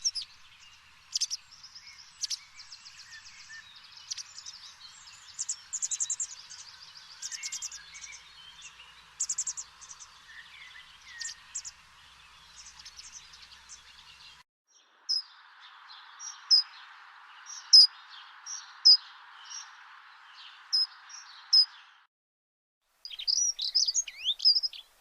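Small birds chirping and singing, repeated short high calls over a steady hiss. The sound drops out for about a second near the end before the chirping resumes.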